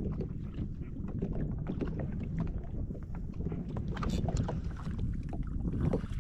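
Choppy water lapping and slapping against the hull of an anchored jet ski, in irregular sharp slaps over a low wind rumble on the microphone.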